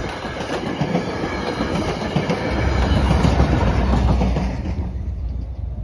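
The last coaches of a commuter passenger train running past over a grade crossing, wheels clattering on the rails. The noise fades about four and a half seconds in as the last car clears, leaving a low rumble.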